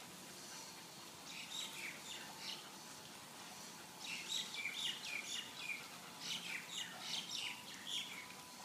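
Small songbirds chirping: a quick series of short, high chirps, busier from about four seconds in.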